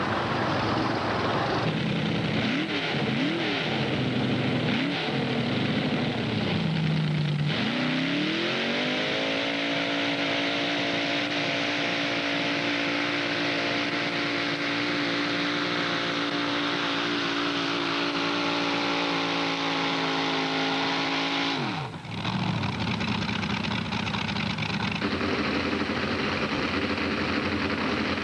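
Modified pulling tractor's engine revved a few times, then run up about seven seconds in and held at a steady, high full-throttle pitch for about fourteen seconds during a pull. The pitch then drops away suddenly, and lower engine sound carries on afterwards.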